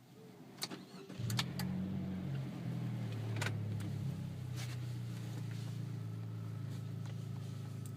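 Chevy Sonic RS's turbocharged 1.4-litre four-cylinder with an aftermarket exhaust, heard from inside the cabin: a few clicks, then about a second in the engine fires up, flares briefly and settles to a steady idle.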